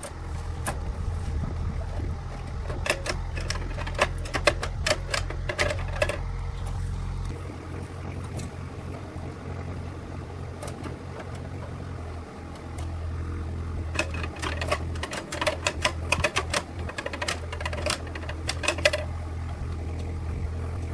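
A steady low mechanical hum with two spells of rapid, irregular metallic clicking and rattling, the first a couple of seconds in and the second in the latter half.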